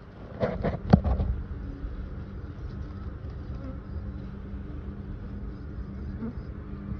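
Honey bees buzzing steadily around the front of the hive. A quick cluster of thumps comes about a second in.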